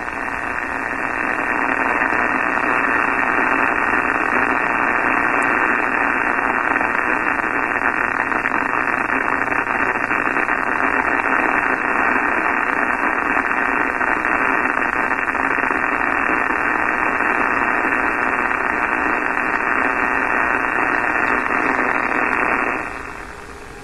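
80-meter amateur-band receiver putting out loud, steady static hiss through its speaker as it is tuned down the band from 4 MHz. The noise sits at S9 plus 10 dB across the whole band. It stays with the house's power shut off at the main and the radio on battery, so it is coming from outside. The hiss cuts off near the end.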